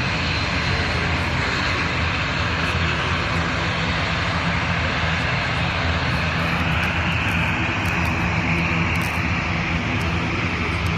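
Airliner engines running steadily, with a high whine that rises slightly about six seconds in.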